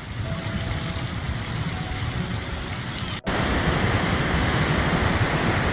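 Steady rush of the Millstone River running fast and high after heavy rain. About three seconds in there is a sudden break, and after it the water is louder.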